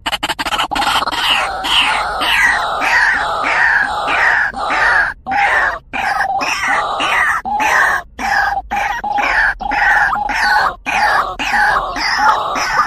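White-breasted waterhen (truwok, ruak-ruak) calling: a fast, unbroken run of harsh, croaking notes, two or three a second, used as a lure call for the birds.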